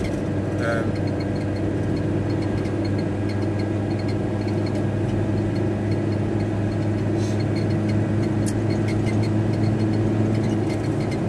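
VW T4 Transporter diesel van driving at a steady speed, heard from inside the cab: a steady engine and road drone with an even hum.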